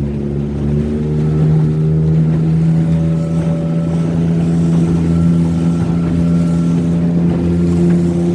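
Motorboat engine running at a steady speed, its pitch stepping up slightly about a second in and then holding.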